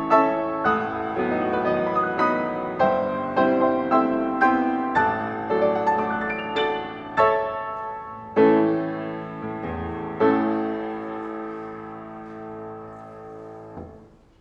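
Piano playing a slow passage of struck chords, ending on a final chord that rings and dies away, cut off just before the end.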